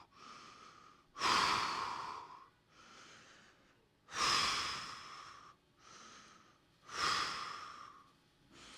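Audible deep breathing held in a down-dog stretch: three loud, forceful exhales about three seconds apart, each fading off, with quieter inhales between them.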